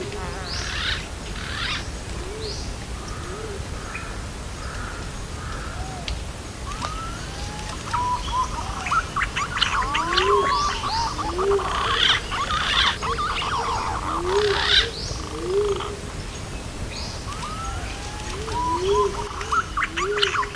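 Green pigeon (punai) lure recording: paired low, hooked call notes repeat every second or two, with gliding whistles and many high chirps from other birds over them. The chirping is busiest in the middle.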